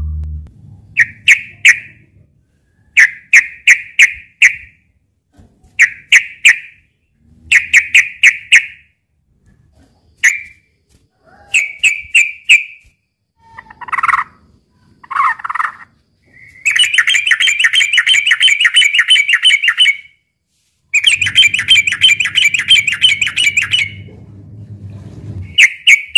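Yellow-vented bulbul (trucukan) calling: short bubbly phrases repeated about every second and a half, then two long, fast chattering runs of about three seconds each past the middle. A low hum runs under some of the phrases.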